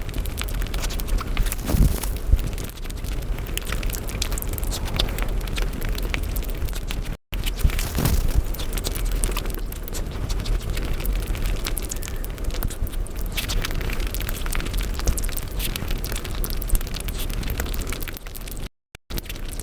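Close-miked eating sounds, chewing and mouth smacks on cake and Indian sweets, played back at five times speed so that they run together into a dense, rapid stream of clicks and pops. The stream breaks off briefly twice, at about seven seconds in and near the end.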